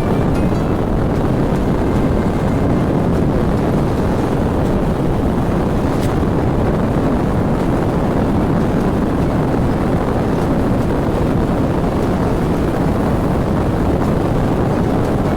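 Steady wind rush over the microphone with the motorcycle's engine and tyre noise underneath while riding on a road.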